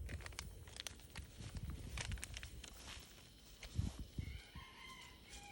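Light clicks and rustles of hands working seeds and a plant label into garden soil, with a soft thump just before four seconds in. Near the end comes a faint, distant, drawn-out call.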